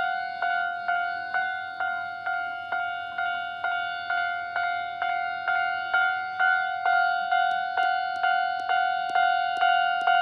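Japanese railway level-crossing warning bell ringing, the electronic clang repeating about twice a second at a steady pitch, signalling that a train is approaching and the crossing is closed.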